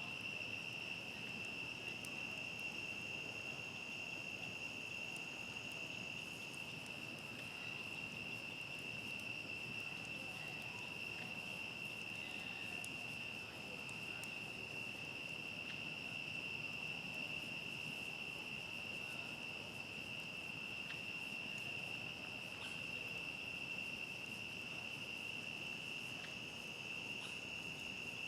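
A steady, unbroken chorus of night crickets, one continuous high trill, over a low hiss with a few faint scattered crackles from a campfire.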